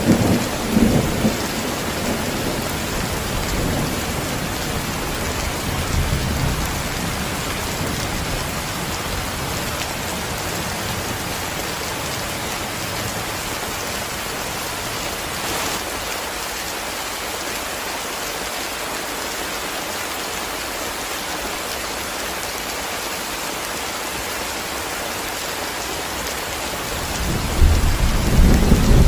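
Steady heavy rain with thunder: a low rumble in the first couple of seconds dies away, and another starts near the end.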